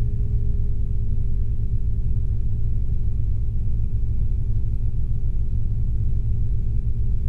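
Steady drone inside a Robinson R22 helicopter cabin during a practice autorotation descent: the freewheeling main rotor and idling engine make a constant low rumble with two steady hum tones over it.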